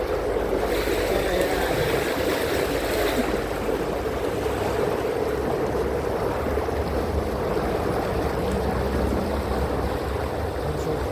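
Canal tour boat underway: its motor running steadily with water and wind noise around the hull, and a brief extra hiss from about one to three seconds in.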